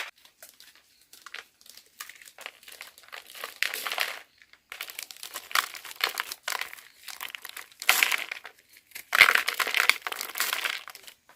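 Crinkly wrapping being handled, crinkling and rustling in irregular bursts, loudest from about eight to eleven seconds in.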